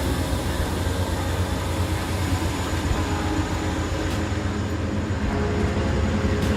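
Train with diesel locomotives running with a steady low rumble, pulling out after the conductor's 'ready to highball' departure call.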